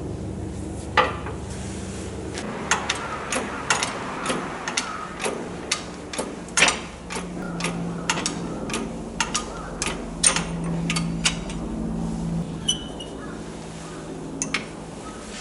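Metal tools clinking and knocking, many sharp strikes at an irregular pace, over a steady low hum.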